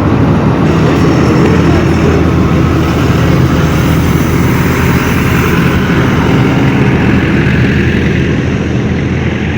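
Jet airliner engines running close by: a loud, steady rush with a low hum beneath it, easing off slightly near the end.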